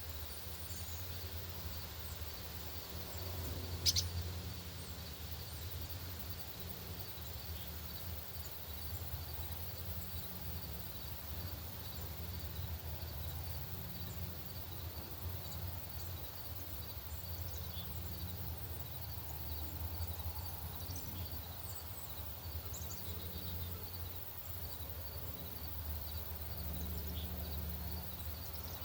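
Outdoor ambience with a steady low rumble under scattered faint, short, high bird chirps. A sharp high chip stands out about four seconds in, and a faint high note pulses evenly throughout.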